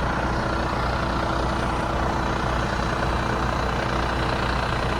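Diesel engine of a 2023 Western Star dump truck idling steadily, a constant low hum.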